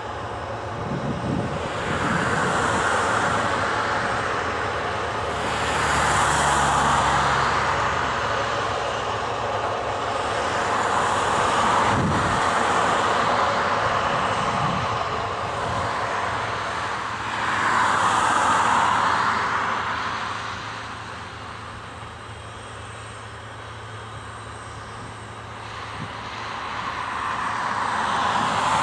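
Antonov An-124-100's four D-18T turbofan engines running at a distance, a steady rushing jet noise that swells and fades every few seconds, dipping for a while before rising again near the end.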